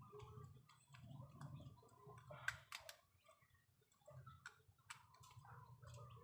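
Faint, scattered clicks and light taps of metal motorcycle parts being handled as a carburetor is fitted back onto its intake, over a low steady hum; the sharpest click comes about two and a half seconds in.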